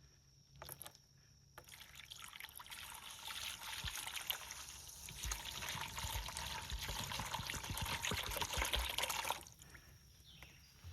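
Old fuel mixed with water trickling and pouring out of a jet ski's fuel tank as it is drained, a steady flow starting about a second and a half in and stopping about a second before the end.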